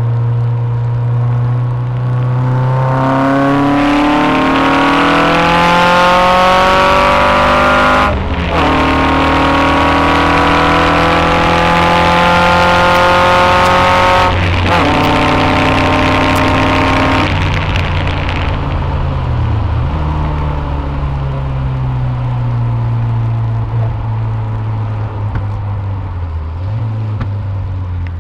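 Westfield sports car's engine accelerating hard up through the gears. The note climbs steadily, with two sharp drops at upshifts about six seconds apart. Later the driver lifts off, and the engine runs at a lower, steadier note into the next corner. A rush of wind and road noise comes with the high-speed stretch.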